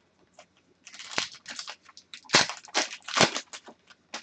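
Hockey trading cards and their packs being handled: a run of short, dry crinkling and rustling noises, loudest a little past the middle.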